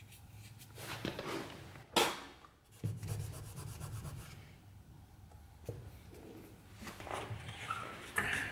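Rubbing and scraping handling noise on the wooden ice box, with one sharp knock about two seconds in.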